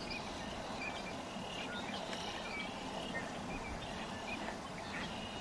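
Faint, scattered short chirps of distant small birds over a steady outdoor background hiss.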